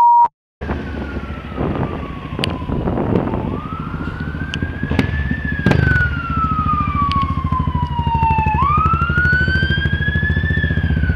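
Wailing emergency-vehicle siren, its pitch slowly rising and falling about every five seconds, starting just after a brief silence, over a steady engine running low underneath.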